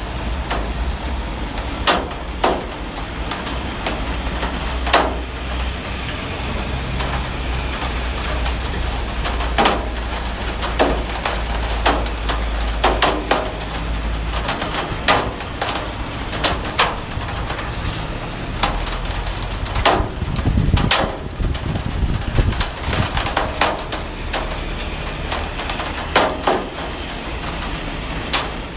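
Heavy rain falling steadily, with frequent loud separate drops or drips knocking at irregular intervals over the hiss, and a brief low rumble about twenty seconds in.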